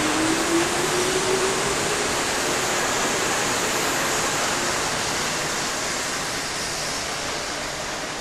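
Kintetsu electric train pulling out of the station: a steady rush of wheels on rail with a motor whine rising in pitch over the first couple of seconds as it accelerates, fading gradually as the train moves away.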